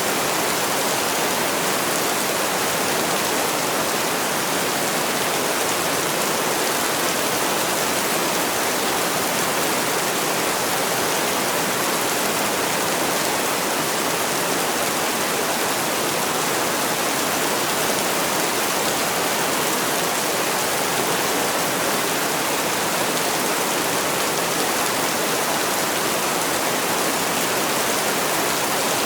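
Heavy rain falling steadily, an unbroken even hiss with no single drops standing out.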